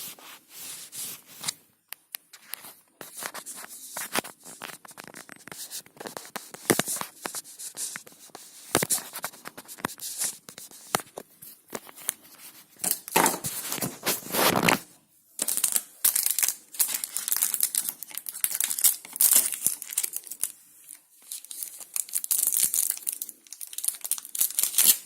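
Plastic wrapping of a dishwasher tablet being torn open and crinkled by hand, in irregular stop-start crackles and rustles.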